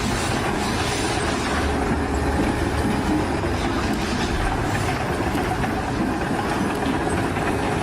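Loud, steady mechanical noise with a low rumble, from heavy machinery or a vehicle running.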